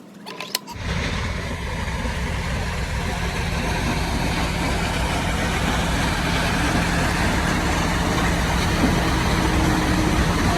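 A motor or engine starts suddenly about a second in and runs steadily and loudly, with a low hum under a dense noise.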